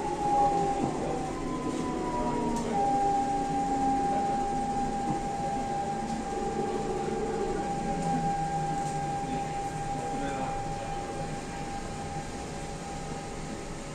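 Siemens C651 electric train slowing to a stop: a whine falls in pitch for the first couple of seconds. A steady high electrical whine then holds for about ten seconds and stops near the end, over the car's low rumble.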